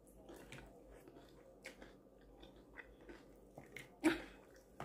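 A person chewing a mouthful of food: soft, irregular wet clicks and smacks of the mouth, with one louder mouth sound about four seconds in.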